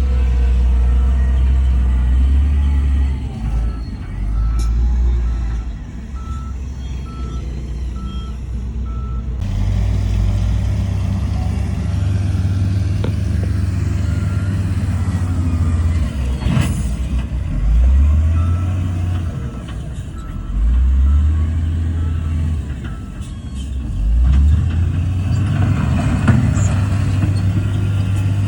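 Heavy diesel earthmoving machinery running, with a reversing alarm giving steady, evenly spaced beeps for several seconds near the start and briefly again later. In the second half the engine revs up three times, rising in pitch each time.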